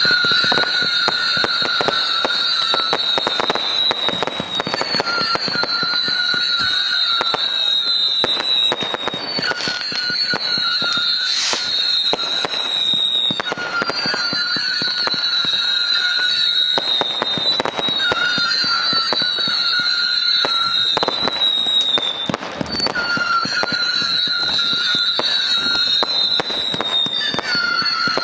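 Fireworks display: shells launching and bursting with a steady stream of sharp bangs and pops. Over it, a high whistling tone that falls slightly in pitch repeats every four to five seconds.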